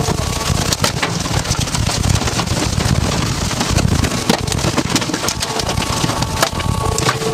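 Strong wind roaring around the armored tornado-intercept vehicle, with rain and debris striking its body in many sharp hits.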